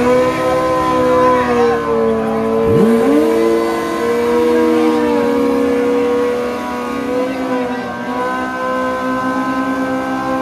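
Drag motorcycles at the start line, one of them a Kawasaki ZX-14R: one engine held at steady high revs, and a second that revs up sharply about three seconds in and then holds steady as well.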